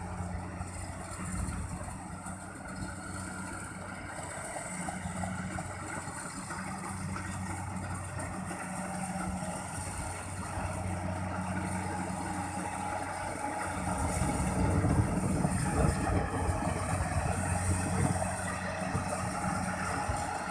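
Engine of a Kubota rice combine harvester running steadily, with a low, even hum. It grows louder and rougher about two-thirds of the way through.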